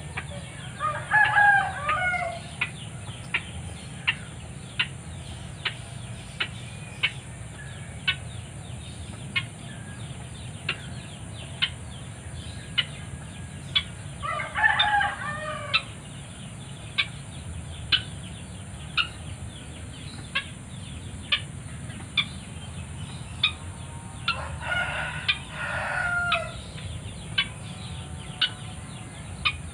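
A rooster crowing three times, about ten seconds apart, over a steady sharp ticking that repeats a little faster than once a second.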